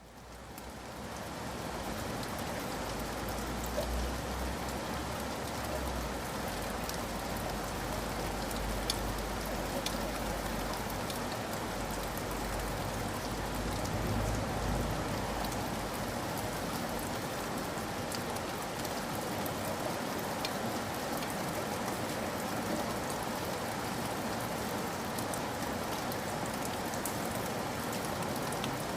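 Steady rain falling, an even hiss with scattered individual drops ticking, fading in over the first second.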